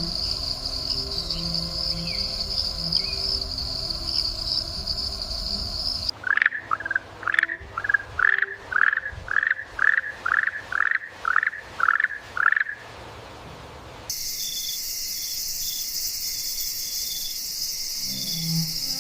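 Insect chorus with a steady high-pitched buzz. About six seconds in it gives way to a dozen short, loud calls, roughly two a second, and after a short lull a higher, hissing insect drone takes over.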